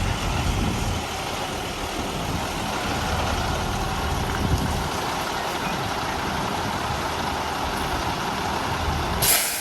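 Diesel truck engine running steadily, with a short burst of hiss near the end.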